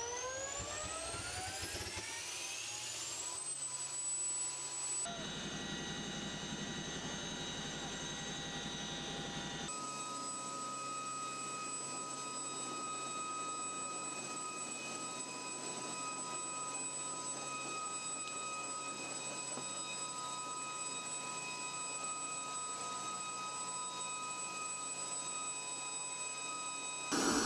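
CH-47 Chinook helicopter's twin turboshaft engines whining, climbing steeply in pitch over the first few seconds as they spool up, then running as a steady high whine over the helicopter's running noise. The sound changes abruptly twice, about five and ten seconds in.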